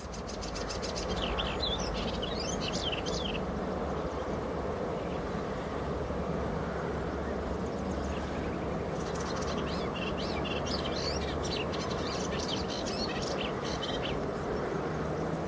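Small birds chirping in quick runs of high notes, in two bouts: one about half a second in and another from about nine to fourteen seconds, over a steady background rush.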